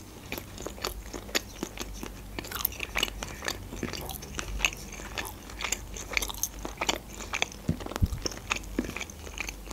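Close-up chewing of a slice of meat pizza: many small, crisp crunches and wet mouth clicks at an irregular pace.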